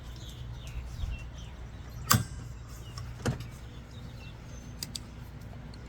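Two sharp knocks about a second apart over a steady low hum, with a few faint chirps and clicks.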